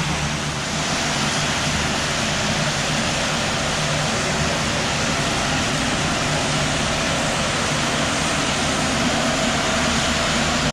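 Steady, loud rushing noise with a low engine hum beneath it, unchanging throughout.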